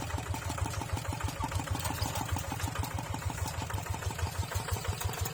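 Tractor engine running steadily, its exhaust a rapid, even beat of low thumps.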